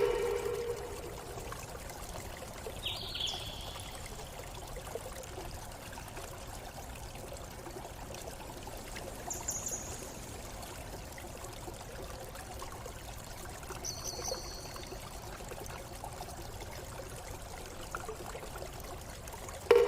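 A stream running steadily, with a few short, high bird calls standing out about three, nine and fourteen seconds in. A loud low tone fades away over about a second, at the very start and again near the end.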